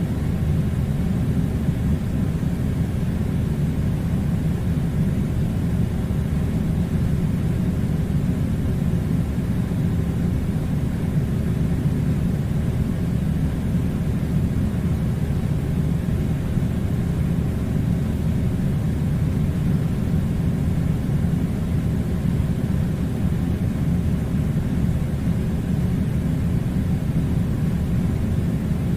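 Air conditioner running: a steady, unchanging low rumbling drone.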